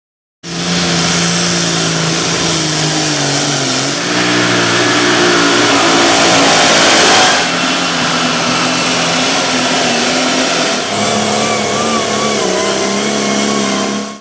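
Pulling tractors' engines running hard at high revs, heard in a few short stretches that change abruptly about 4, 7 and 11 seconds in; the loudest and harshest is just before the 7-second change.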